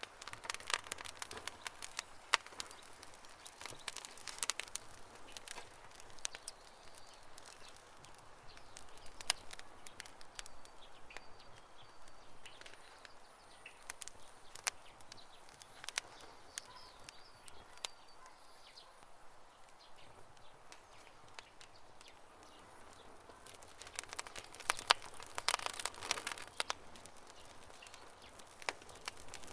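Campfire crackling: irregular sharp pops and snaps, in busy clusters near the start and again a few seconds before the end. Faint bird chirps can be heard in the background partway through.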